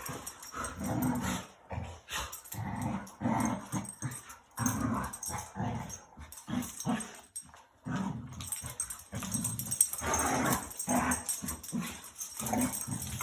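Two dogs play-fighting: repeated short growls and grumbles, one after another, with the odd yip.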